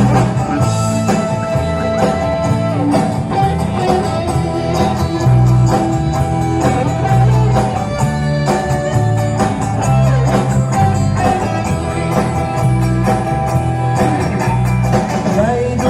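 A vocal-instrumental pop ensemble playing an instrumental break in a song: sustained melody over bass with a steady beat.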